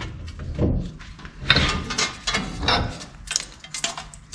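Irregular metal clanks and scraping as a worn front wheel hub and bearing assembly is worked loose from the steering knuckle. There are about half a dozen knocks spread through it.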